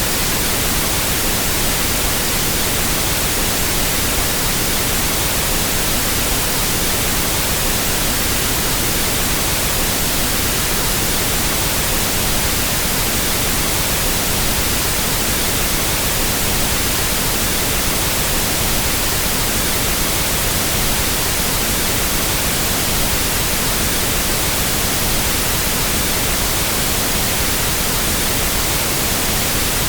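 Continuous pink noise test signal for equalizing sound equipment: a steady, even hiss across the whole range, unchanging in level.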